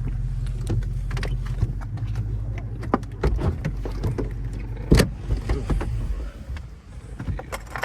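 A Dodge Charger R/T's 5.7 V8 idling low while the car is parked, heard from inside the cabin, with scattered clicks and a sharp thump about five seconds in. The engine's hum stops about six seconds in as it is switched off.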